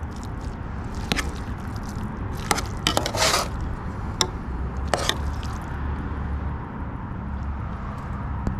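A spoon scraping and clicking in a pot of thick rehydrated chicken curry and rice, with a few sharp clicks and a short scrape about three seconds in, over a steady low rumble.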